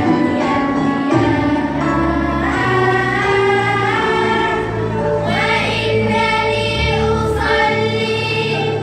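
A school choir of middle-school pupils singing an Arabic nasheed, holding long notes over a low instrumental accompaniment.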